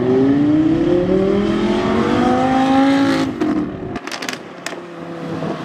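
Engine of a vehicle accelerating away, its pitch rising steadily for about three seconds before it fades. After an abrupt drop about four seconds in, a quieter, steady engine note remains.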